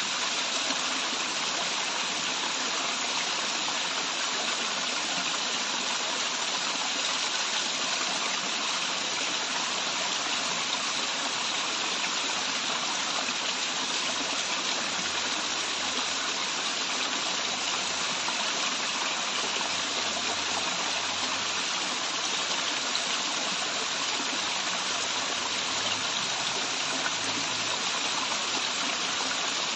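Waterfall running water, a steady rushing with no change in level.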